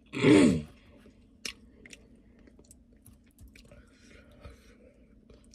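A short, loud wordless vocal sound at the very start, then faint chewing of chicken wings with scattered small mouth clicks and smacks.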